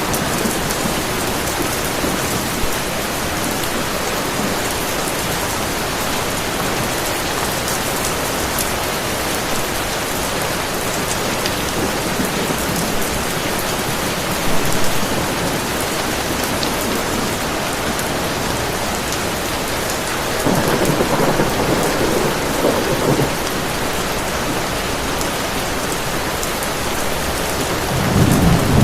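Heavy rain falling steadily, with low rumbles of thunder about twenty seconds in and again near the end.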